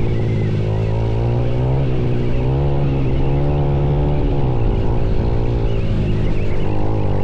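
Motorcycle engine running under the rider, its revs rising and falling again and again as the throttle is worked.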